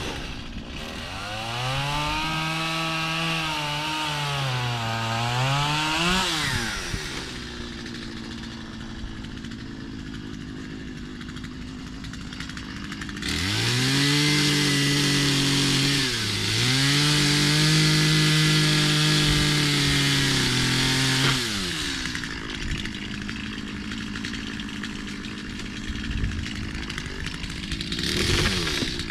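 Gas chainsaw cutting crepe myrtle wood. The engine revs high twice for several seconds each, its pitch sagging under load as it cuts, and falls back to idle between cuts. It rises again briefly near the end.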